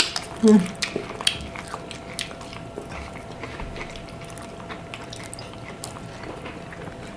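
Close-up eating sounds: chewing and wet lip smacks with small clicks while eating buttered garlic seafood, plus one brief vocal sound about half a second in.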